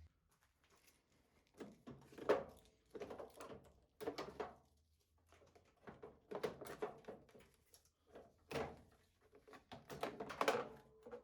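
Irregular knocks, clicks and scraping of hand tools and parts being handled while a washing machine is taken apart, a few strokes ringing briefly like struck metal.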